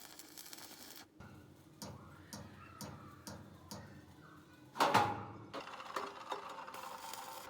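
A series of light knocks and clicks about every half second, with one louder clatter about five seconds in, typical of hand work with metal parts and tools.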